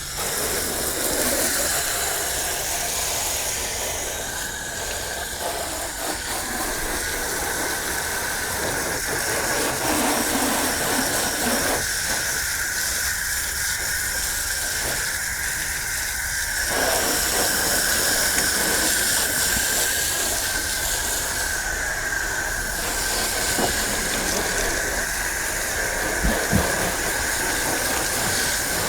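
Water spraying hard onto a car's body during a rinse: a steady hiss that starts suddenly, with a steady high whine running through it. A brief thump comes near the end.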